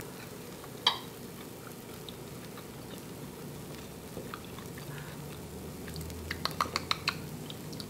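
Faint chewing and mouth sounds from a person eating a bite of soft scrambled mung-bean egg, with a single click about a second in and a run of small, quick, wet clicks near the end.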